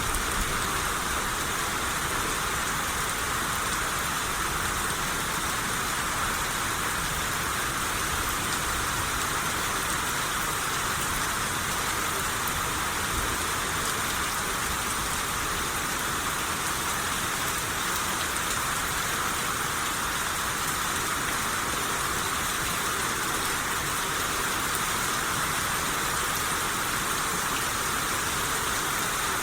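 Steady rain shower falling on surfaces, an even, unbroken hiss that holds constant throughout.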